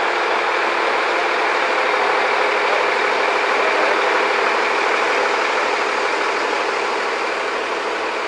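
Engine of heavy construction machinery running steadily, swelling slightly midway and easing a little toward the end.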